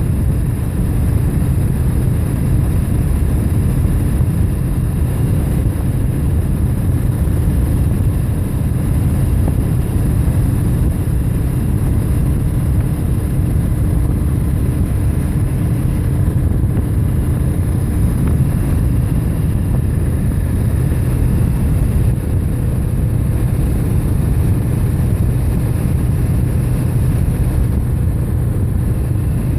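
Steady, loud low rumble of wind and road noise on the microphone while riding a bike, unbroken throughout.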